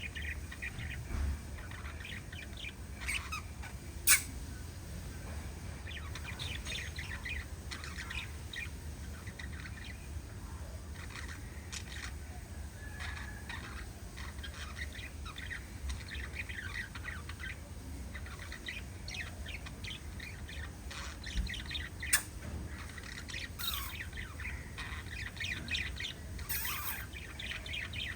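A small flock of pet parrots chirping and chattering continuously with quick, short high calls. Two sharp clicks stand out, one about four seconds in and another near the twenty-two second mark.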